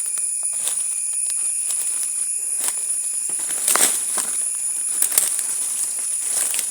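Outdoor nature ambience: a steady high-pitched drone, with scattered crackling clicks and a louder cluster of crackles about four and five seconds in.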